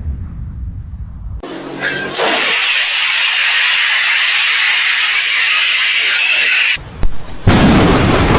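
Thunder rumbling, then about a second and a half in a loud, steady hiss of heavy rain that cuts off suddenly; near the end another loud low rumble of thunder.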